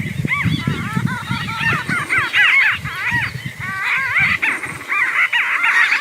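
An animal's rapid series of short, high, squeaky calls, each rising and falling in pitch, over low thumps and rustling.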